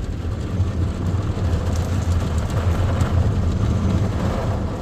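Ryko Softgloss XS 2 in-bay car wash machine working over the car, heard from inside: a steady low rumble with a hiss of spray.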